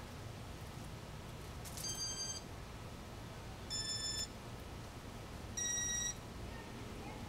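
Three short electronic beeps about two seconds apart, the last one the loudest, over a steady low hum.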